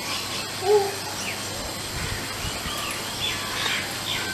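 Birds chirping, a few short calls scattered through, over a steady background hiss, with a brief voice-like call about a second in.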